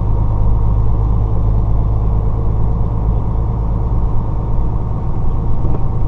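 Semi truck's diesel engine running steadily, heard from inside the cab as a constant low rumble.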